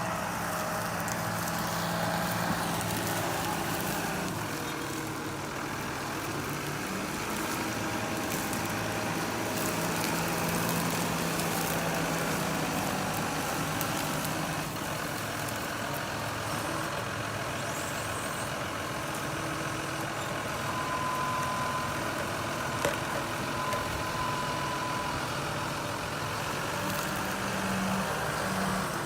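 Heavy stump-removal machine's engine running steadily, with a few short knocks in the later part.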